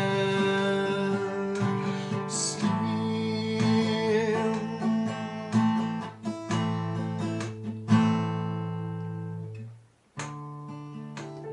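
Acoustic guitar strumming chords. About eight seconds in, one hard strum rings out and fades almost to silence, then the strumming starts again.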